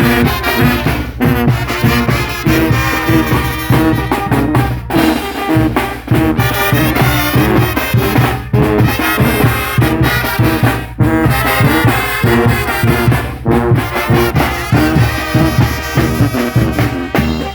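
Mexican banda brass band playing, trumpets and trombones leading over a steady beat in the bass.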